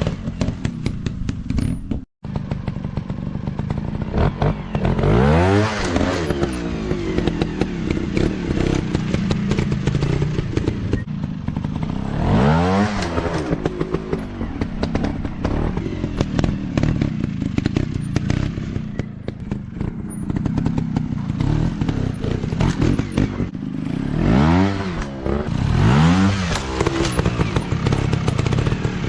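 150 cc off-road motorcycle engines running hard, revving up and back down several times, with rattling and clatter. There is a brief dropout about two seconds in.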